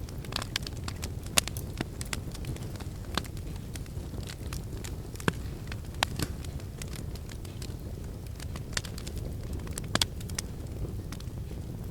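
Wood fire in a fireplace crackling, with irregular sharp snaps and pops over a steady low rumble of the flames; a few pops stand out louder.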